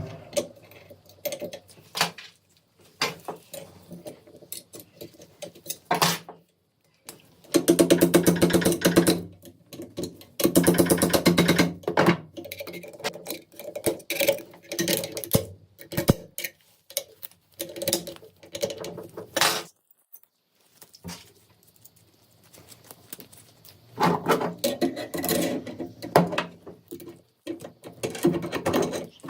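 Metal rifle parts and hand tools being worked: a run of irregular clicks and knocks, with two bursts of rapid rattling about seven and ten seconds in, and another busy stretch of clatter near the end.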